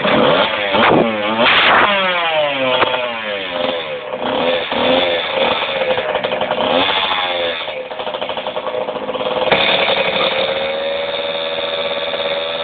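65cc two-stroke motocross bike engine revving hard, coming in suddenly, its pitch climbing and dropping again and again over the first seven seconds or so, then running at a steadier high pitch.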